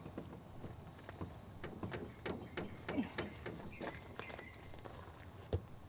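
Scattered light clicks and knocks of objects being handled and set down, with a sharper knock about five and a half seconds in.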